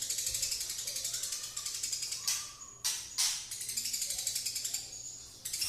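Eurasian tree sparrow giving a long, fast, ratchet-like chattering song, the 'konslet' rattle, with two louder sharp chirps between two and three and a half seconds in and a short break about five seconds in.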